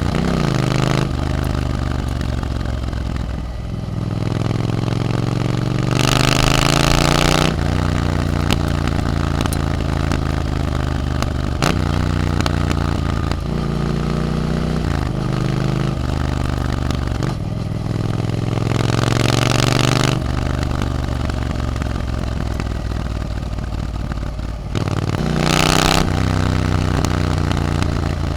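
Triumph Scrambler 900's parallel-twin engine through an Arrow aftermarket exhaust while riding, accelerating through the gears: the pitch climbs, drops back at each upshift and climbs again. Three short bursts of rushing noise come through.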